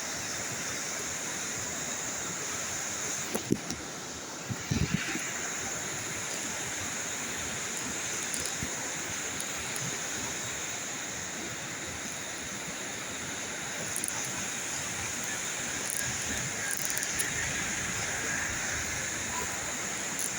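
Steady rushing outdoor noise, with a few sharp knocks about three and a half and five seconds in.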